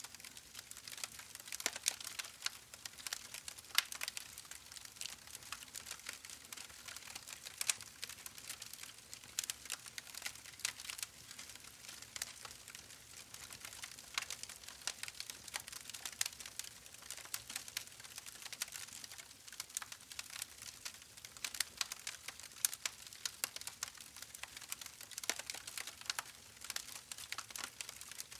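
Wood fire crackling in a fireplace: a constant run of irregular sharp snaps and pops over a soft hiss.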